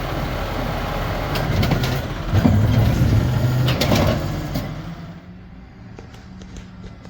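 Amrep garbage truck working at close range: the diesel engine runs and revs up under load for a couple of seconds, with metallic clanks and knocks, then the sound falls away sharply about five seconds in.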